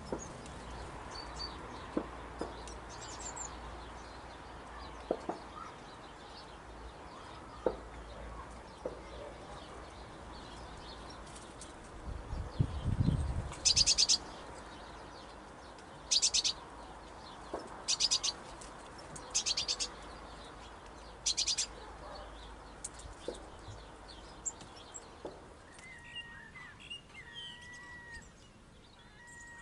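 Small garden birds calling: about five short, high, rapid rattling calls spaced a couple of seconds apart through the middle, with scattered faint chirps and clicks. A brief low rumble comes just before the first rattle, and short chirping calls come near the end.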